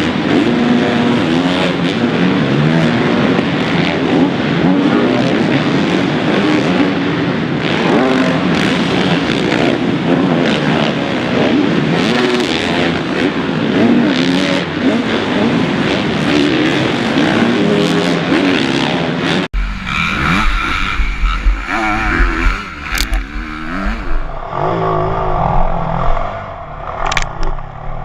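Several motocross bikes' engines revving and running together, their pitches rising and falling as the riders work the throttle. About two-thirds of the way through the sound cuts abruptly to another recording with a heavier low rumble and engines still revving.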